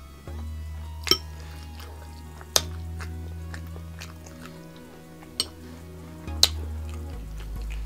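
A metal fork clinks sharply against a glass bowl four times as it digs into saucy ravioli, over background music with a low, steady bass.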